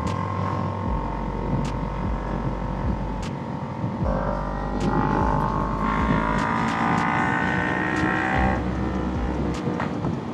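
Kawasaki Ninja 300 parallel-twin engine on the move: steady at first, then about four seconds in the revs jump and climb under acceleration for several seconds before dropping back sharply near the end.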